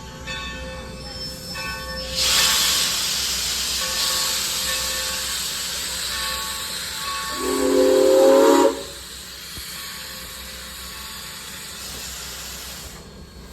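Coal-burning steam locomotive venting steam in a loud, steady hiss that starts about two seconds in and runs for some eleven seconds. Its steam whistle sounds one short blast of several tones about halfway through.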